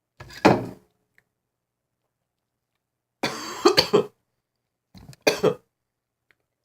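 A person coughing and clearing their throat in three short bouts: one near the start, one about three seconds in and one about five seconds in.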